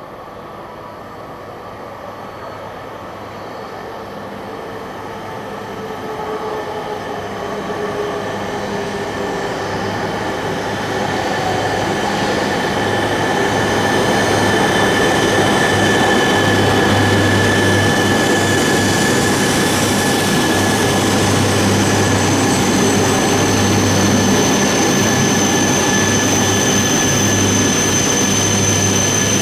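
Tohoku Shinkansen train approaching and running close by, growing steadily louder over about fifteen seconds and then holding loud, with a dense rail roar and steady high-pitched whines.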